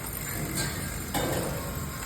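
Automatic counting and packaging machine running with a steady mechanical hum, and two sharp clicks of parts about half a second and a second in.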